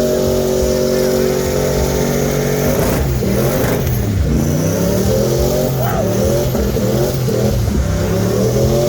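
Car engine revving hard and held at high revs. About three seconds in, the revs start dipping and climbing repeatedly for several seconds, then settle back to a steady high note near the end.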